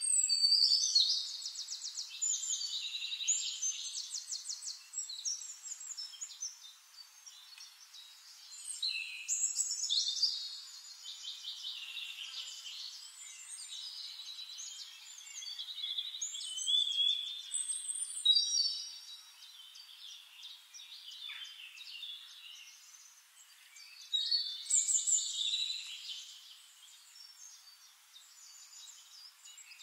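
Birdsong: rapid high trills and chirps that come in louder bursts every several seconds.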